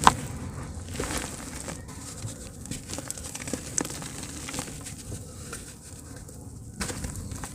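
Soft dirt chunks crumbling in water: a sharp click just after the start, then scattered small crackles and pops over a steady hiss.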